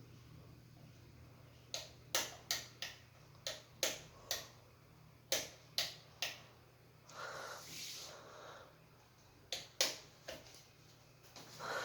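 Irregular sharp clicks and knocks, a dozen or so in two clusters, like small hard parts or tools being handled, with a brief rustle between them over a steady low hum.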